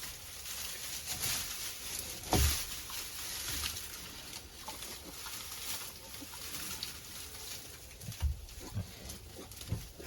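Sow grunting: a single louder grunt about two seconds in, and several short low grunts near the end.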